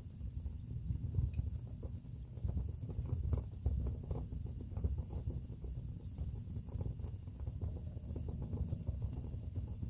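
Wood fire burning in a fireplace: a steady low rumble of flames with irregular crackles and small pops from the burning logs.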